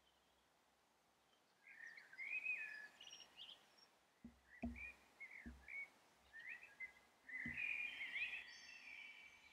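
A songbird singing: chirping, warbling phrases that start about a second and a half in and grow denser near the end. A few soft low thumps come in the middle.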